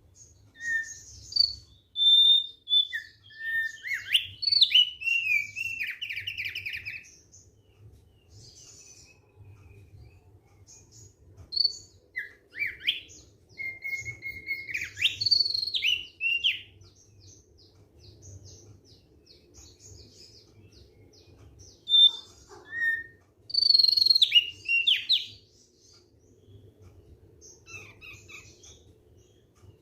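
Thick-billed heleia (opior paruh tebal) singing in three bursts of quick whistled phrases, with notes sliding up and down and short, quieter gaps between bursts.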